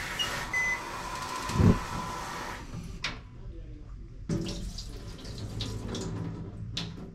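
Kitchen tap running into a sink, shut off after about two and a half seconds, with a dull knock midway.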